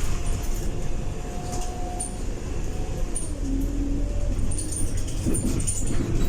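Scania K230UB single-deck bus with a ZF 6HP504C automatic gearbox running, heard from inside the cabin. It is a steady low rumble with a drivetrain whine that rises slightly, then drops about three seconds in, over light interior rattling.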